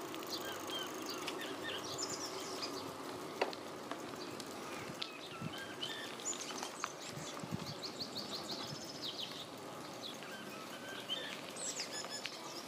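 Songbirds singing and chirping among the trees, many short quick phrases that come and go throughout, over a steady background noise.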